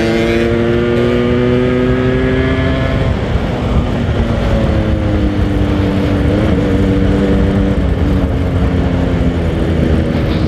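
Yamaha RX King's single-cylinder two-stroke engine pulling under way, its pitch climbing slowly and dipping at a gear change about six and a half seconds in and again at the end, with wind rumble on the microphone.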